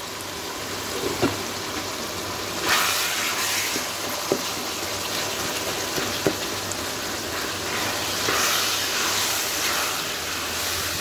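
Minced mutton and tomatoes sizzling in a metal kadhai as a wooden spatula stirs and scrapes through them, the hiss growing louder about three seconds in. A few light knocks of the spatula on the pan.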